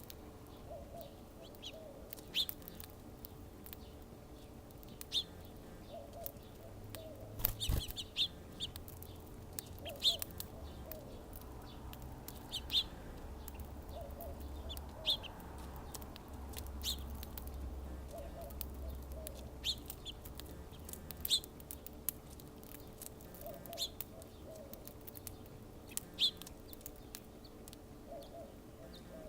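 Birds calling around a backyard feeder: short high chirps every second or two, with a lower clucking call repeating every few seconds. A single sharp click sounds about eight seconds in.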